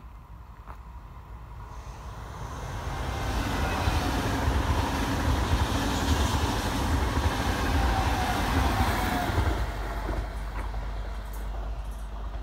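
A train passing by, its rolling noise and rumble building from about two seconds in, loudest in the middle, then fading away towards the end, with a faint whine that drops in pitch as it goes by.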